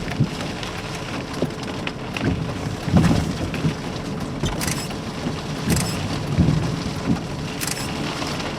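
Rain beating on a car's windshield and roof, heard from inside the cabin, with the windshield wipers running. A steady hiss is broken by several low thumps.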